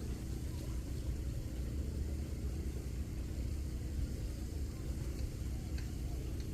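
Steady low rumble of a running engine, like a vehicle driving.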